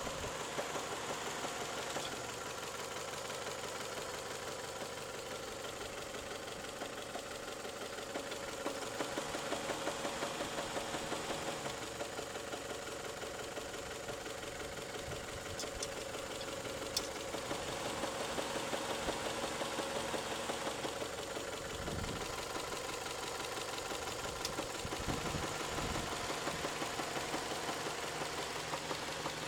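Toyota 3S-FE inline-four engine running with a rapid, rhythmic knock that grows louder in stretches. The knock comes on once the engine is warm, and its cause is unknown to the owner.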